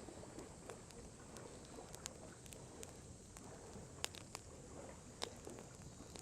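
Wood campfire crackling: scattered sharp pops and ticks, the two loudest about four and five seconds in, over a low steady rushing background.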